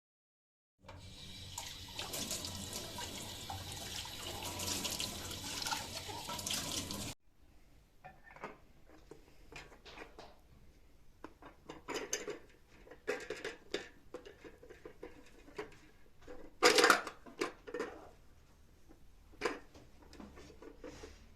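Kitchen tap running into the sink for about six seconds, stopping abruptly, followed by scattered light knocks and clatters of things being handled, the loudest about 17 seconds in.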